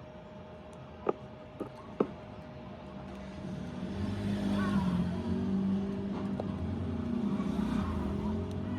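Three sharp clicks, then a motor vehicle engine that grows louder from about three seconds in and swells twice as it passes.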